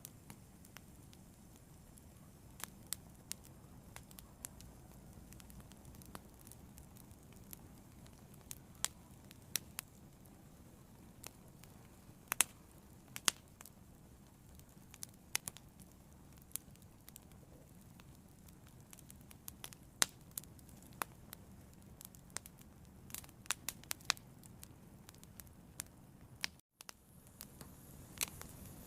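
Fire burning, with irregular sharp crackles and pops over a low steady rush of flames. The sound briefly drops out for an instant near the end.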